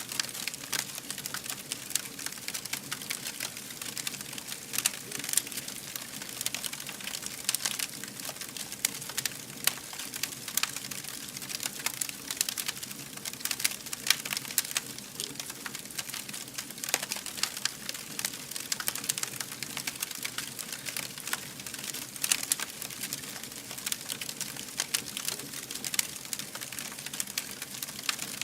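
Wood fire burning, with dense, irregular crackles and pops over a steady hiss.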